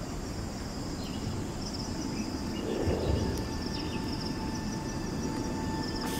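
Ambient soundscape of insects chirping in short repeated trills over a low steady rumble, with a brief swell in the rumble about three seconds in.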